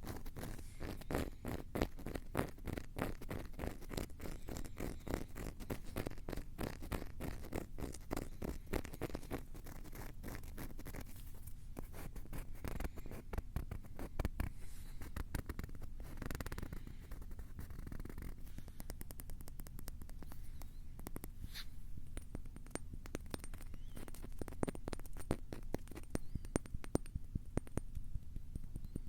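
Rapid, close scratching and tapping directly on a Tascam recorder's microphones, dense strokes many times a second.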